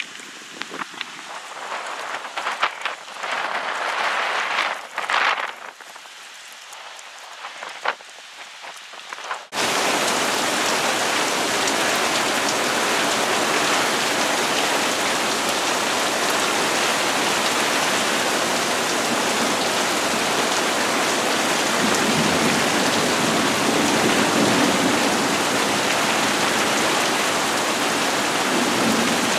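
Irregular gusts of wind at first, then about ten seconds in the sound switches abruptly to a steady, loud hiss of heavy monsoon rain pouring down.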